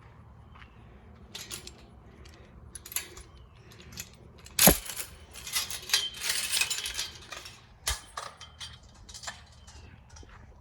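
Metal clinking and rattling, with a sharp knock about halfway through followed by a couple of seconds of scraping and rattling: a pen gate or door being unlatched and opened.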